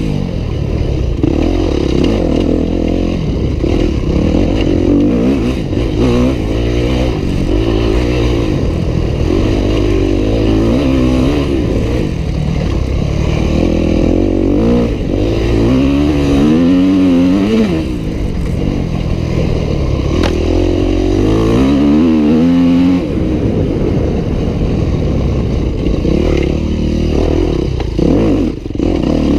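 Yamaha YZ250F four-stroke single-cylinder dirt bike engine being ridden hard, revving up and down with the pitch rising and falling again and again.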